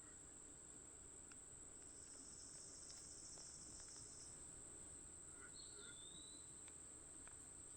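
Faint outdoor insect chorus: a steady high-pitched trill, joined by a second high buzz for about two seconds, with a short whistled call about five and a half seconds in.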